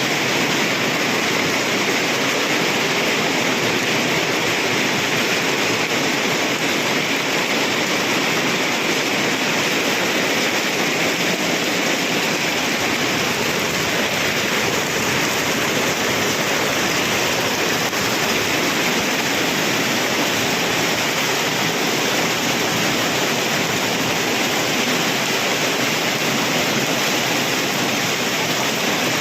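Heavy rain in a hailstorm pelting down, a dense steady hiss of countless impacts that doesn't let up.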